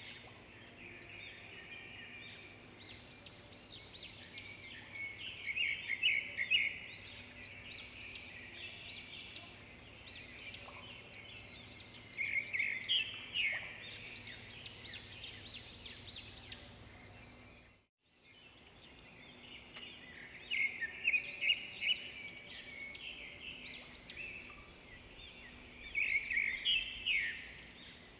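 Birds singing and chirping, with a louder trilling song phrase coming back every six or seven seconds over a steady chatter of shorter chirps. The sound drops out for an instant about two-thirds of the way through.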